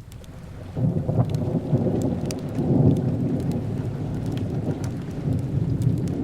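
A long rumble of thunder that comes in suddenly about a second in and rolls on, over steady rain and the light crackle of a fireplace.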